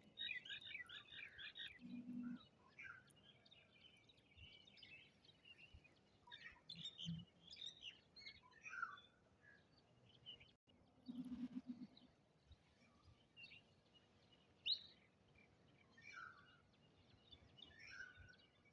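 Faint chirping and twittering of small birds, many short calls scattered throughout. Two brief low sounds stand out, about two seconds in and again about eleven seconds in.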